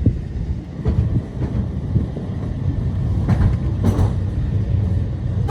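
Great Orme Tramway tramcar running on its rails: a steady low rumble with a few scattered clicks.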